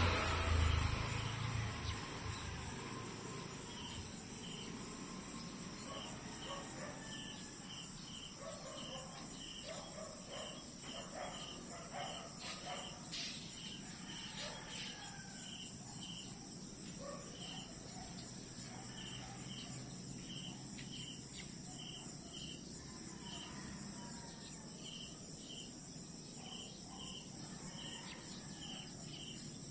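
Crickets chirping in short repeated pulses, about two a second, over a steady high insect buzz. A louder low rushing sound fades away in the first two seconds.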